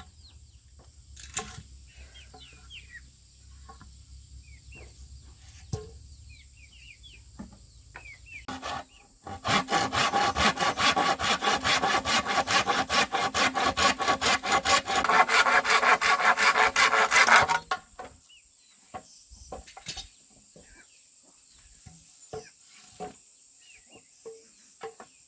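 A hand tool worked rapidly back and forth on bamboo, sawing or rasping: a long, steady run of rasping strokes starting about nine seconds in and stopping sharply about eight seconds later. Before and after the strokes it is quiet, with faint short bird chirps and a few light knocks.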